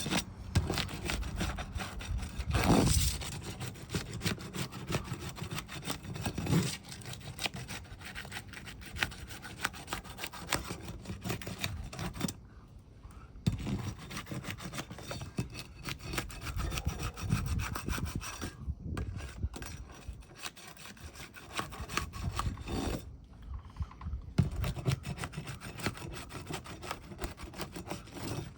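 Roofing flat bar being worked gently under asphalt shingles to break their adhesive seals: repeated scraping and rasping with small clicks, stopping briefly a few times.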